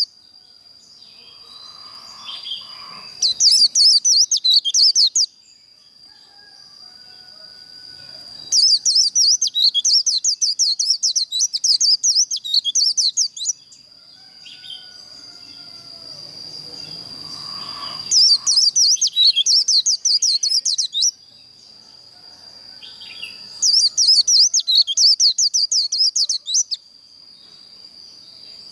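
White-eye (vành khuyên) singing its rapid, jumbled 'líu' song in four bursts of a few seconds each, with a steady high whine underneath.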